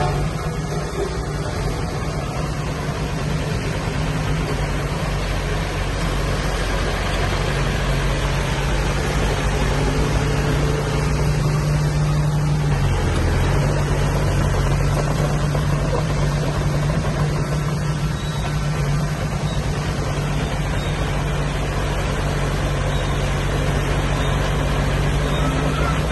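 Diesel engine of heavy earth-moving machinery running steadily with a low hum, its pitch sagging briefly about halfway through before recovering.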